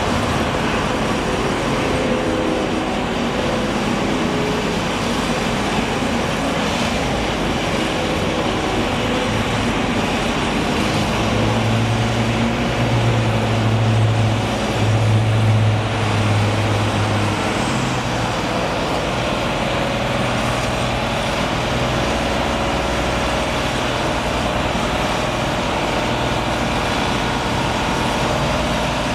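Steady motor traffic and heavy engine noise, with a low engine drone that swells louder for several seconds in the middle before settling back.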